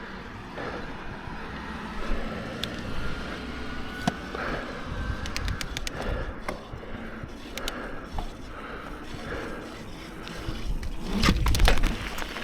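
Mountain bike rolling down a wet dirt trail: steady tyre noise on the ground with scattered sharp clicks and rattles from the bike, and a louder, rougher stretch near the end.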